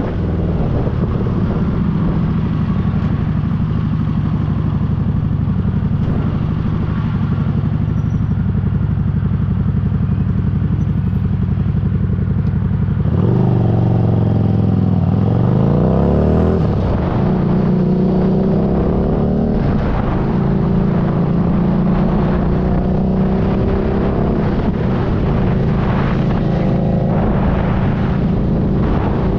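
Motorcycle engine running under way. About halfway through, the revs rise over a few seconds, then drop.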